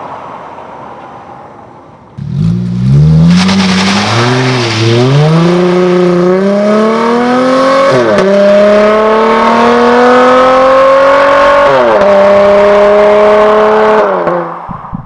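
V6 LX-platform car's engine through an aftermarket stainless dual exhaust: it fades away at first, then comes on hard about two seconds in and accelerates with rising revs, the pitch dropping at two upshifts about eight and twelve seconds in before the sound fades near the end.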